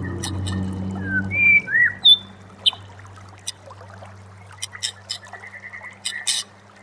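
Songbird song for shama training: a few clear gliding whistles early on, then a run of short, sharp chipping and clicking notes. A low steady hum underneath is loud at first and fades out after about a second and a half.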